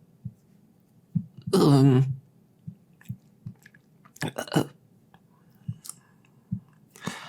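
Close-miked ASMR eating sounds: a mouth chewing fries, with scattered small wet clicks and smacks. A short hummed voice sound comes about a second and a half in, and there are clusters of sharper mouth noises around four seconds in and near the end.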